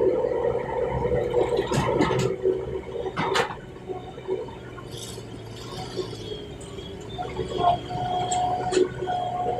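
Excavator working, its engine and hydraulics making a steady hum with a whining tone, and a few sharp clanks in the first few seconds. The sound drops quieter for a few seconds in the middle, then picks up again.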